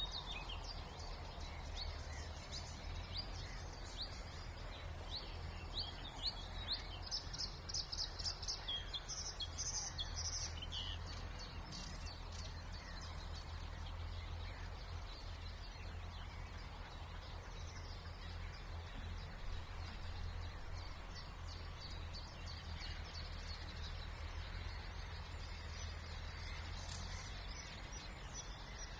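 Spring songbirds singing and calling, quick high notes that come densest a few seconds in and again near the end, over a steady low hum of distant noise.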